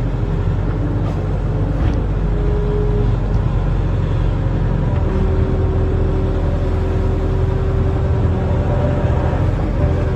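Diesel engine of a barge-mounted excavator running steadily under load as a low drone, with a faint steady whine joining about halfway through.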